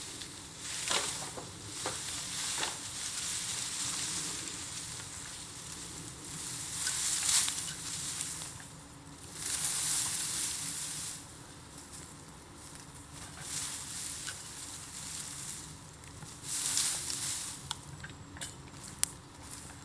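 Burning bamboo in an open bonfire, hissing and crackling in surges that swell and fade every few seconds. Sharp pops and snaps come through here and there, most plainly in the first few seconds and again near the end.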